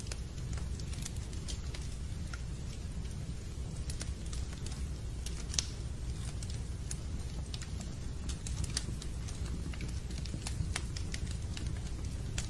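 Fireplace fire crackling: irregular sharp pops and snaps over a steady low rumble of the burning fire, with one louder pop about halfway through.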